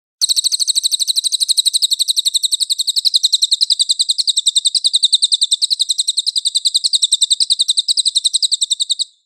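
Recorded songbird call used as masteran material: one long, high, rapid trill of even repeated notes, about ten a second, which starts suddenly and is cut off sharply after about nine seconds.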